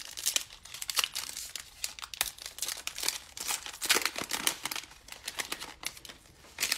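A plastic trading card pack wrapper being crinkled and torn open, with irregular crackling throughout.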